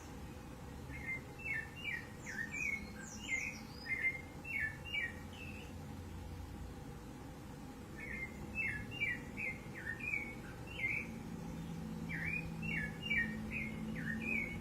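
Rufous-bellied thrush singing: three phrases of quick, clear notes with pauses between them.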